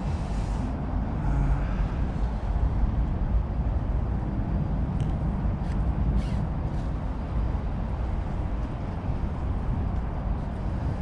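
Steady low outdoor rumble with no speech, and a couple of faint clicks in the middle.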